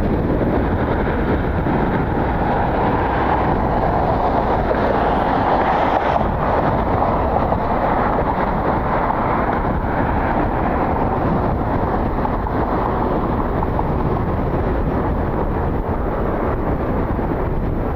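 Jet airliner engines, a steady rushing noise that swells a few seconds in and then eases off slowly.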